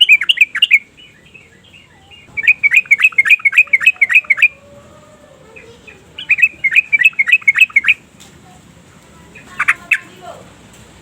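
Yellow-vented bulbul singing: three bursts of rapid, bubbly chattering notes, about six a second, each burst lasting one to two seconds. A couple of short separate notes follow near the end.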